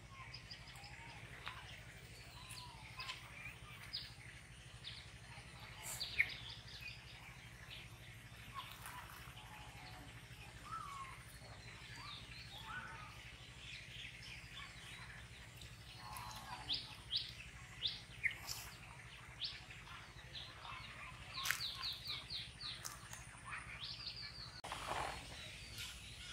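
Several small birds chirping in short, scattered calls, with a quick run of repeated notes about three-quarters of the way through and a lower call near the end, over a faint steady background hum.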